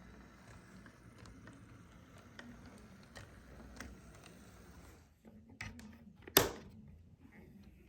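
HO-scale Atlas GP38 model locomotive running quietly on DC power along the track: a faint steady motor hum with light scattered clicks. There is one sharp loud click about six and a half seconds in.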